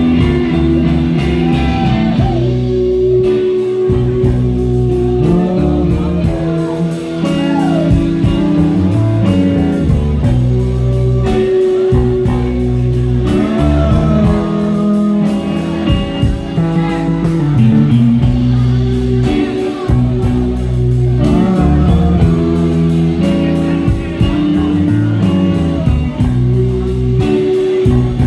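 Blues band playing an instrumental passage, with guitar to the fore over bass and a steady drum beat.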